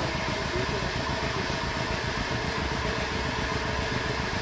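Metal-cutting equipment running steadily while a large steel gas cylinder is being cut, a constant hissing noise over a low mechanical rumble.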